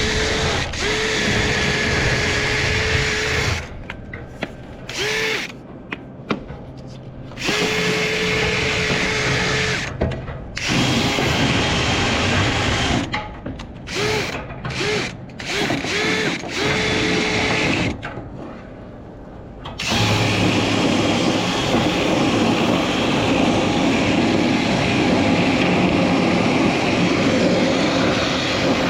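Power drill spinning a rotary dryer-vent cleaning brush rod, triggered in repeated bursts of a steady motor whine, each opening with a brief rising spin-up. About two-thirds of the way through it gives way to a louder, continuous rushing run.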